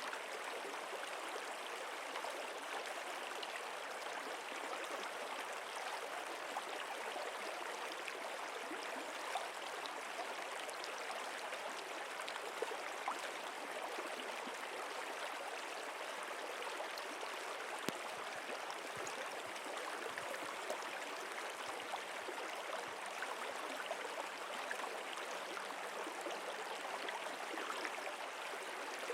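Running water of a stream flowing steadily: an even, unbroken rushing and gurgling, with a few faint ticks of small splashes.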